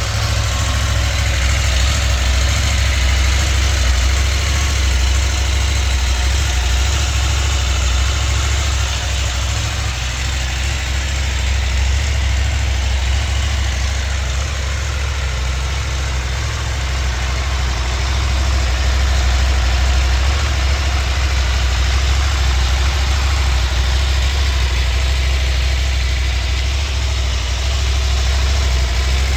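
2025 KTM 890 Adventure R's parallel-twin engine idling steadily, with a deep, even exhaust note that holds its pitch throughout, without revving.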